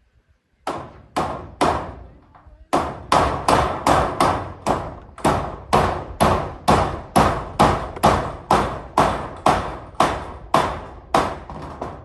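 A hammer striking over and over, most likely driving roofing nails through corrugated zinc sheets. Three blows come first, then a short pause, then a steady run of about two to three blows a second, each with a brief ringing decay.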